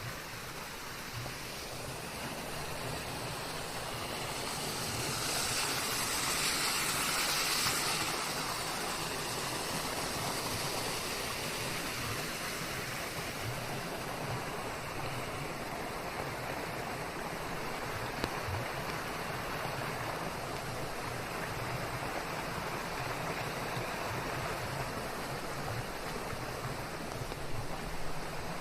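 Steady rain hiss mixed with white noise, swelling louder and brighter for a few seconds near the start before settling back to an even hiss.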